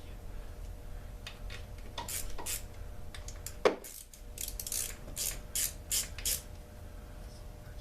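Hand tools and metal parts clicking and clinking during the teardown of a chainsaw, an irregular string of sharp clicks with one louder knock about halfway through.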